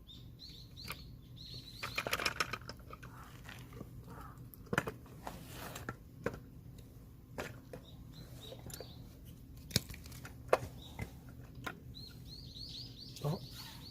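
Scattered sharp knocks and clinks of tools and parts being handled, the loudest a cluster about two seconds in and two single knocks near ten seconds. Small birds chirp in quick high series at the start and again near the end.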